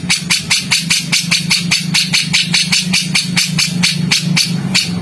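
A songbird's harsh, rapid chattering call: a fast, even run of clipped notes, about eight a second. A steady low hum lies beneath it.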